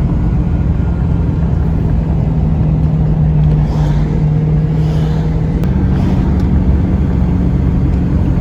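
A car's engine running at a steady speed with low rumbling road noise. The engine hum holds one pitch and steps up slightly about six seconds in.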